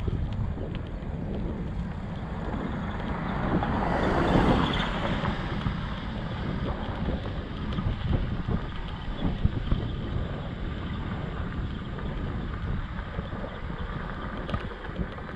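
Wind buffeting the microphone while riding, a steady low rumble, with a louder rushing swell about four seconds in.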